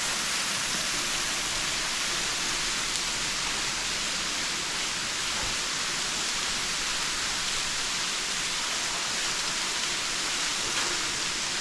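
Waterfall dropping into a deep sinkhole: a steady, even hiss of falling and splashing water.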